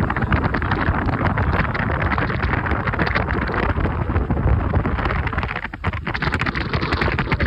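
Wind buffeting the microphone, a loud fluttering rush over a steady low rumble, easing briefly about six seconds in.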